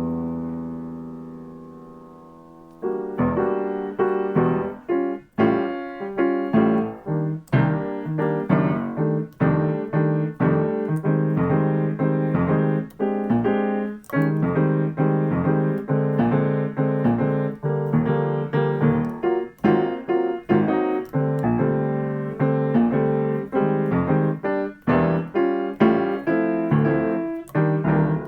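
Piano practising jazz comping patterns. A chord rings and fades for about three seconds, then short repeated chords are played in a steady rhythm.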